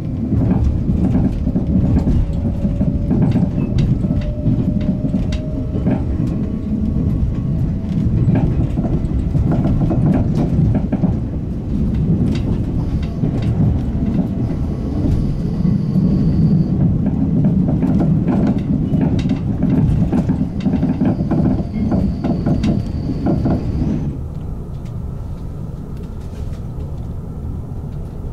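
Cabin noise of a JR 381-series Yakumo limited express train running at speed: a steady rumble of wheels on rail with frequent rail-joint clicks, and two brief thin high squeals in the middle. About 24 seconds in the rumble drops abruptly to a quieter steady hum.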